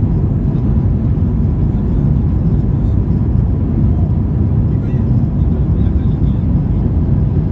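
Steady low rumble of an Airbus A320's engines and airflow heard inside the passenger cabin.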